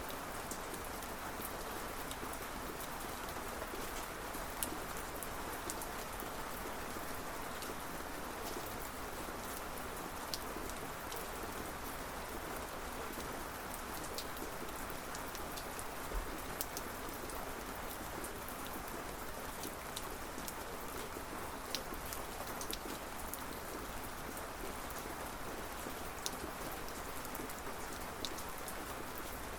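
Steady, even rainfall, with scattered individual drops ticking sharply on a hard surface.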